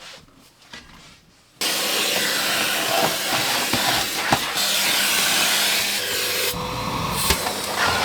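A vacuum cleaner (Hoover) switches on about a second and a half in and runs steadily, sucking up spilled hay packing.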